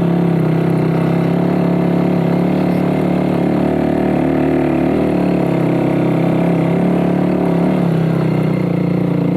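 Lifan KPR motorcycle engine pulling steadily in first gear under load up a steep hill, a constant drone whose pitch wavers slightly about halfway through.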